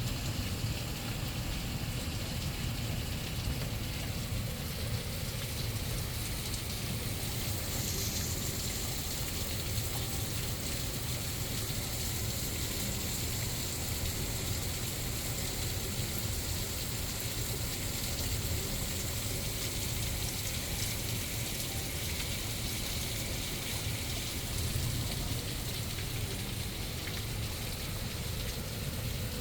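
Steady rain falling, with floodwater rushing along a flooded street.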